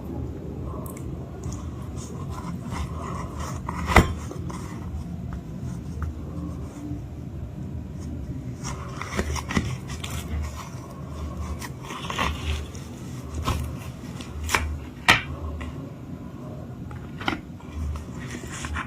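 Close-miked crunching and scraping of a chalk-paste 'cake' being eaten, with scattered sharp cracks. The loudest cracks come about four seconds in and about fifteen seconds in.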